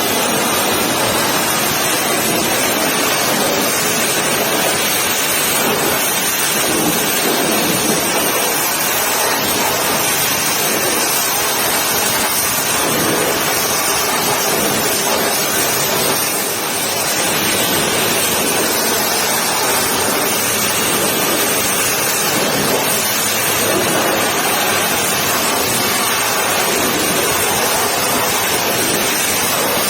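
High-pressure washer spray hitting a muddy truck: a loud, steady hiss of water jet, with a brief drop in level about halfway through.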